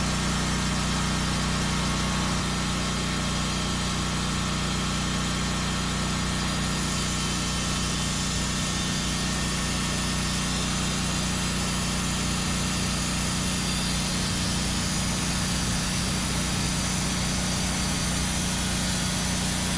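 Gas engine of a portable band sawmill head running steadily at an even speed, with a strong low hum.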